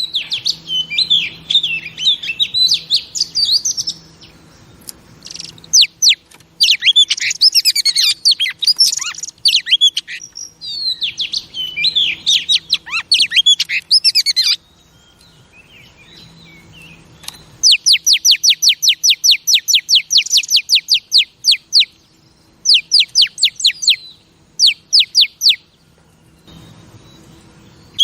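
Female Oriental magpie-robin singing: loud, varied warbled phrases with short pauses, then from about two-thirds of the way in a fast run of repeated down-slurred notes, about six a second, followed by two shorter runs.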